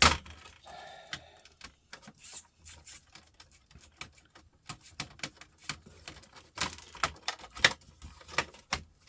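Irregular clicking and clattering of small plastic and metal laptop parts being handled and pried apart during a teardown, some clicks sharp and a few louder knocks among them.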